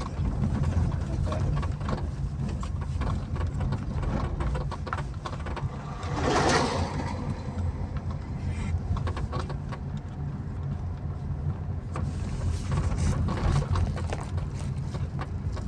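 Car engine and road rumble heard from inside the cabin of a moving car, with a brief rushing swell about six seconds in.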